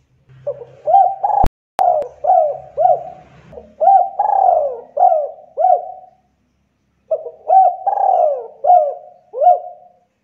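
Spotted dove cooing, a long run of quick repeated coo notes in two bouts with a pause of about a second between them. Two sharp clicks come about one and a half seconds in.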